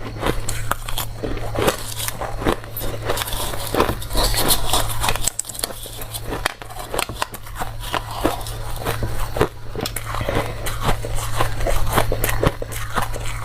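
Close-up crunching of dry, crunchy ice being bitten and chewed: a dense run of irregular sharp cracks and crackles, over a steady low hum.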